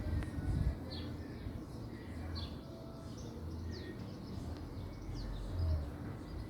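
Small birds calling: about five short chirps, each sliding down in pitch, spaced irregularly. Underneath is an uneven low rumble.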